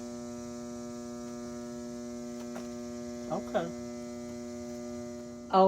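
Vintage Fleetwood sewing machine's electric motor buzzing with a steady hum while the machine stays seized, stuck for want of oil. The hum cuts off near the end.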